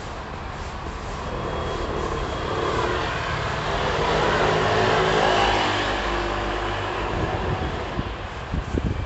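A vehicle passing by: its noise swells to a peak about five seconds in, then fades away.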